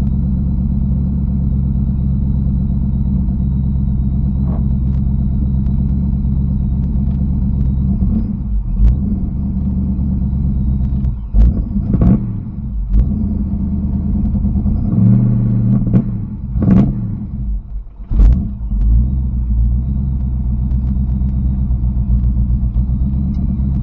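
1986 Mustang's engine running on a newly fitted MSD Ultra 6A ignition box, idling steadily, with several blips of the throttle about halfway through before it settles back to idle.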